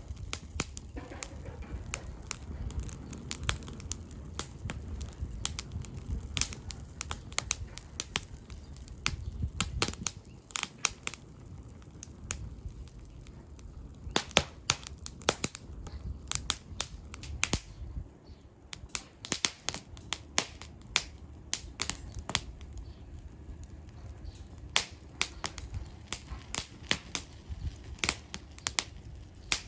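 Split firewood crackling and popping as it burns, with sharp snaps coming irregularly, several a second at times, over a low rumble that eases after the first ten seconds or so.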